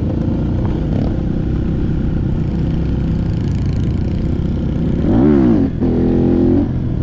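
Trail motorcycle engine running, with a quick rev up and back down about five seconds in.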